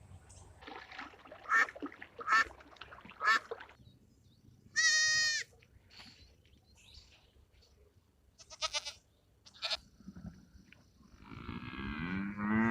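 Goats bleating: three short calls, then a longer high-pitched bleat about five seconds in, a couple more short calls, and a long bleat that sweeps in pitch near the end.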